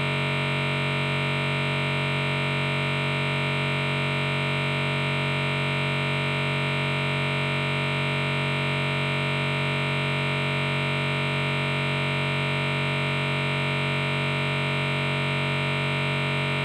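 A steady, unchanging electronic chord of many layered tones, like a held synthesizer note, cut in and out abruptly.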